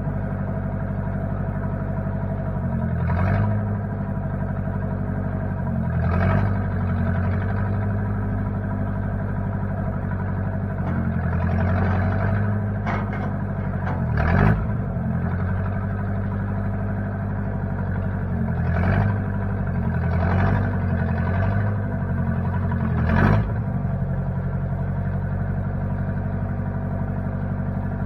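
1960 Case 540 backhoe's engine running steadily at low speed, its note swelling briefly about six times as it is throttled up or loaded and then settles back.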